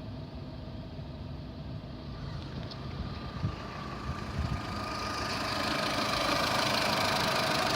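2013 VW Polo's 1.4-litre four-cylinder petrol engine running under test, growing louder from about halfway through, with a faint whine coming up over the engine note. A few short knocks come just before it grows louder.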